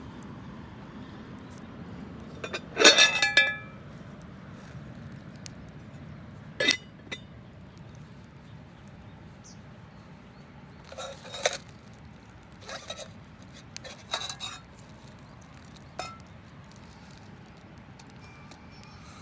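Metal cookware and utensils clinking and clanking while outdoor cooking is being prepared: one loud ringing clank about three seconds in, then scattered lighter clinks and taps.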